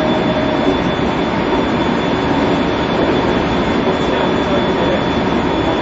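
Inside the cabin of a JR Central 373 series electric train running between stations: steady loud running noise of wheels on rail, with a thin steady high tone.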